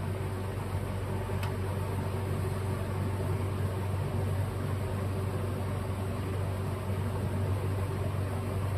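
Steady low machine hum with an even hiss behind it, and one faint click about a second and a half in.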